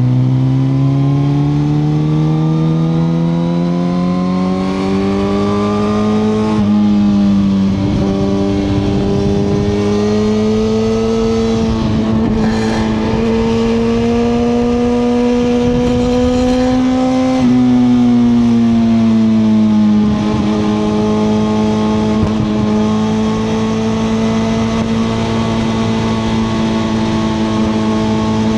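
2021 Suzuki GSX-R1000R's inline-four engine pulling under throttle, its pitch rising steadily, dropping sharply at an upshift about six and a half seconds in, and climbing again with another small step near twelve seconds. From about seventeen seconds the engine note falls as the throttle eases, then it holds a steady cruising pitch, with road and wind rush underneath.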